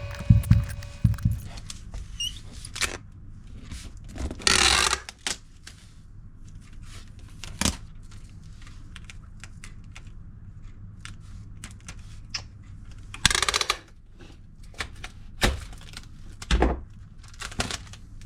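Handling and packing items into a box: scattered clicks and knocks, two short noisy bursts about four and thirteen seconds in, and a low thud near the end, over a steady low hum.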